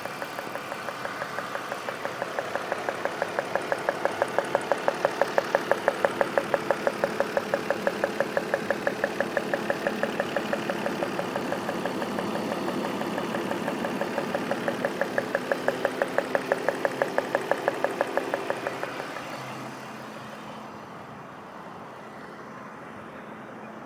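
BMW M52 straight-six engine running with a fast, even rhythmic pulsing noise that the owner is showing as an engine noise. About five seconds before the end the pulsing fades and the engine runs quieter and steadier.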